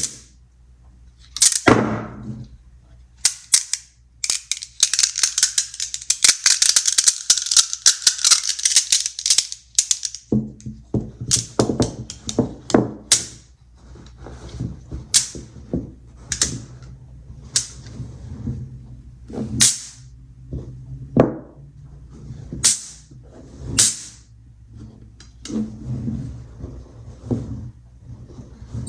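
Small magnet balls clicking and snapping together in sharp clicks. A few seconds in comes a dense, rapid clatter lasting about six seconds, then single snaps follow about a second apart.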